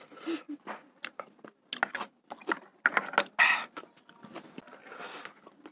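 Close-up eating sounds of a man chewing a mouthful of bakso: a run of short, sharp, wet mouth clicks, with a few brief noisy breaths between them.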